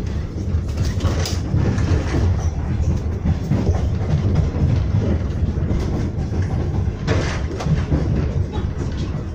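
Moving train heard from inside the carriage: a steady low rumble of wheels running on the rails, with a few sharper clacks, one about a second in and another about seven seconds in.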